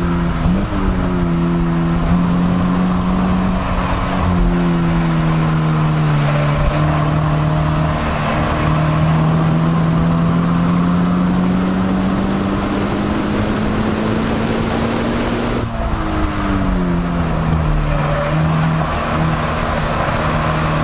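Scion FR-S's 2.0-litre flat-four engine pulling in third gear at high revs, its note slowly falling as the car slows. The pitch steps down a few seconds in and again sharply about sixteen seconds in.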